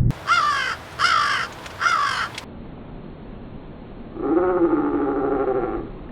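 A bird calls three times in quick succession. Then a single call is played slowed down, much lower and longer, a drawn-out groan-like version of the same call shape, lasting almost two seconds.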